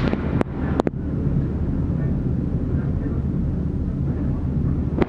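MV Ali Cat catamaran ferry's diesel engines running with a steady low rumble as it pulls away, with a few sharp clicks in the first second.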